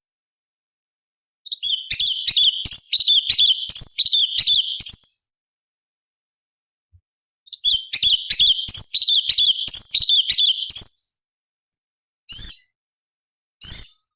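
Orange-bellied leafbird (cucak cungkok) singing: two long bursts of rapid, sharp chattering notes of about three to four seconds each, then two short calls near the end.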